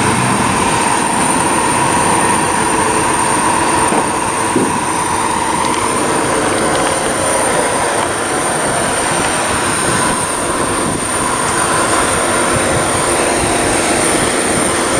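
A train passing, a steady loud rumble with a high tone running through it.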